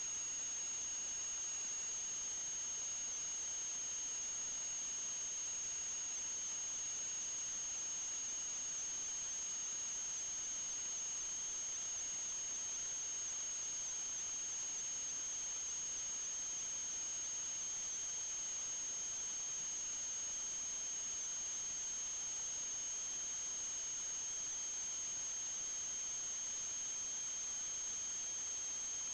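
Steady high-pitched electronic whine with a fainter, lower second tone over a constant hiss, unchanging throughout.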